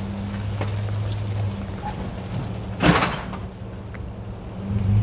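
A tow truck's engine running steadily, with one short, loud noisy burst about three seconds in.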